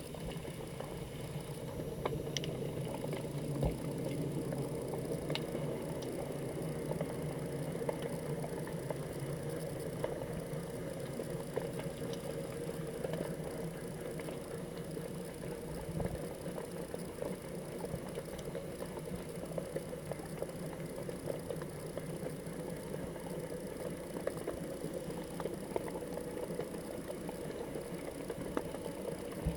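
Muffled underwater noise heard through a GoPro's waterproof housing: a steady low rush of water with small clicks and crackles scattered through it.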